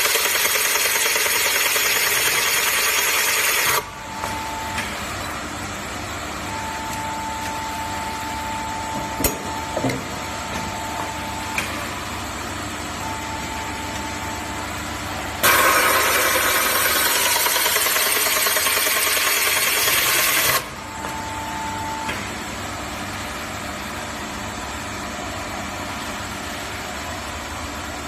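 Automatic steel pipe drilling machine at work: two loud spells of cutting noise, about four and five seconds long, one at the start and one about halfway through. Between and after them the machine runs with a quieter steady hum, short steady whines and a few clicks.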